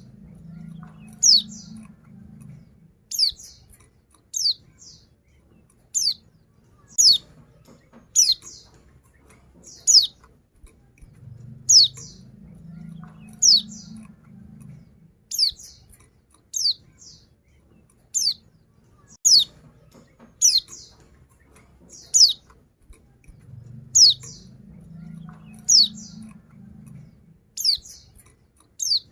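Female white-eye (pleci) calling: a steady series of short, high, falling call notes, often in close pairs, about one a second. It is the female's call to a male, used as a lure to get male white-eyes singing.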